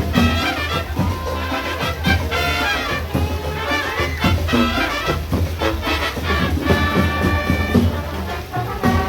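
Brass band playing a lively tune, with trumpets and trombones carrying the melody over a steady low accompaniment.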